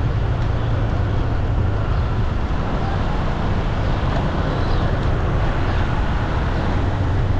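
Steady street traffic noise with a constant low engine hum and no distinct single event.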